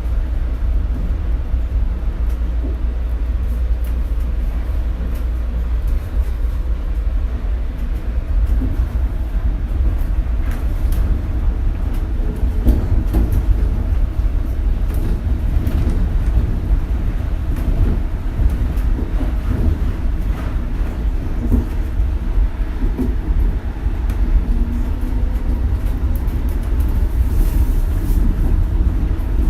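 Shonan Monorail suspended rubber-tyred train running: a steady, heavy low rumble with scattered small knocks and rattles.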